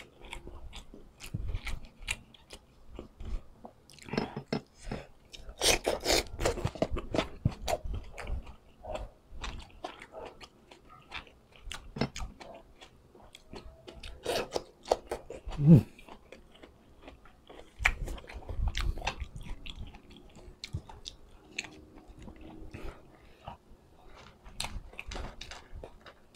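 Close-miked mukbang eating: a person biting and chewing food with many crisp crunches and wet mouth clicks, including a bite into an okra pod. The crunching is densest a few seconds in, and there is one short, louder sound a little past the middle.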